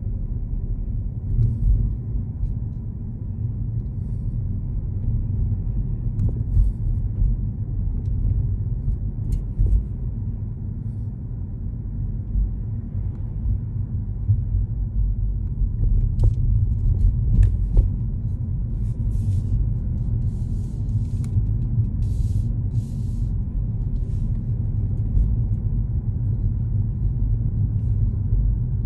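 Steady low rumble of a car's engine and tyres heard from inside the moving car, with a few sharp clicks about halfway through and several short hisses just after.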